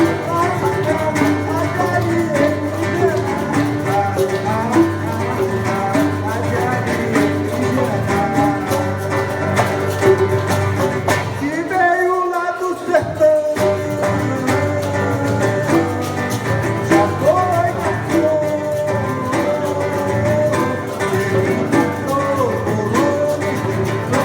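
Live acoustic music: a violão (acoustic guitar) playing with bongo accompaniment, a steady instrumental passage.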